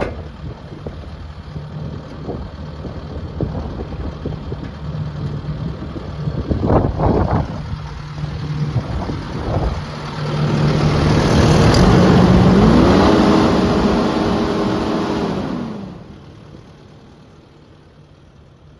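Kubota SVL75-2 compact track loader's diesel engine running, with a few clanks about 7 seconds in. From about 10 seconds it revs up loudly, and a whine rises in pitch, holds for a couple of seconds and falls away. Near the end the engine drops back to a quiet idle.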